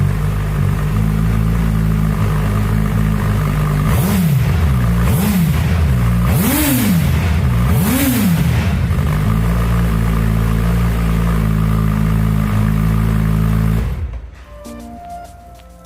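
Suzuki Hayabusa inline-four idling through a Yoshimura aftermarket exhaust. About four seconds in it is revved four times in quick succession, each rev rising and falling in pitch, then it settles back to a steady idle. The engine sound cuts off suddenly near the end, leaving something quieter.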